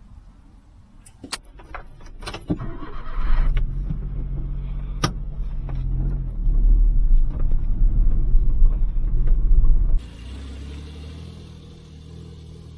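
A few sharp clicks and knocks, then a small vehicle engine running with a loud low rumble from about three seconds in; near the end the sound drops suddenly to a quieter steady hum.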